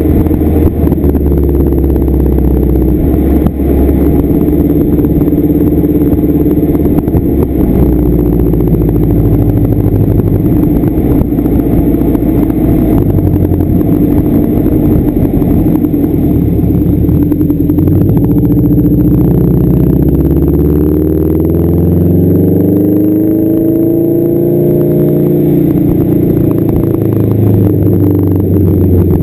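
1992 Subaru Legacy's flat-four engine running through a straight-piped exhaust, loud and steady. About two-thirds of the way through, the engine speed rises and then falls back.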